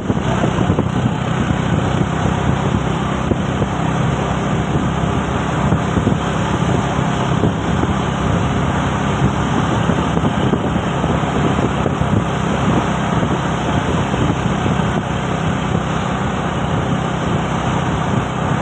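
A truck's diesel engine running steadily under way, mixed with road noise. There are no gear changes, revs or horn blasts.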